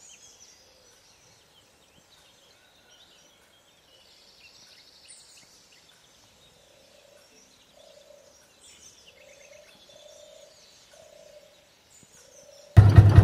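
Birds singing and chirping, with a lower call repeated several times in the second half. Near the end, a tractor engine comes in suddenly and loud, running with a fast, even beat.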